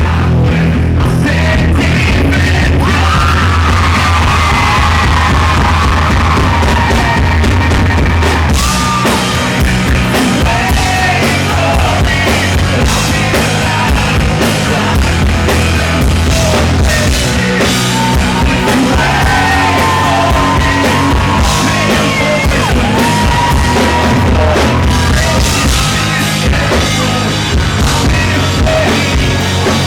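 Live rock band playing loudly, with a strained, partly shouted lead vocal over drums, bass and guitars. The heavy low end eases off about nine seconds in while the singing carries on.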